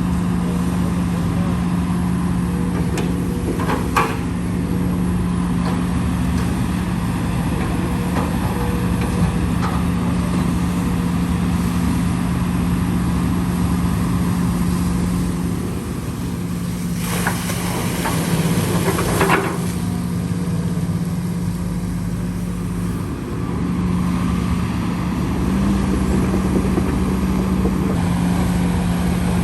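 Diesel engine of heavy earthmoving machinery running steadily, with a few sharp knocks and a hiss lasting about two seconds a little past halfway.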